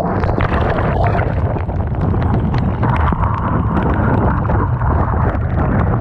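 Typhoon-force wind buffeting the microphone with a heavy low rumble over the steady rush of rough, crashing sea, with many small sharp ticks of blown sea spray striking the camera.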